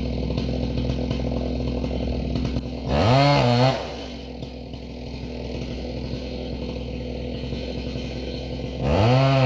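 Chainsaw running, revving up sharply to a high steady pitch for under a second about three seconds in, dropping back, then revving up again near the end.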